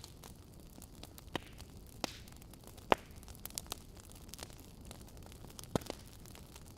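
Wood fire crackling in a fireplace: irregular sharp pops and snaps from the burning logs over a soft hiss, the loudest pop about halfway through.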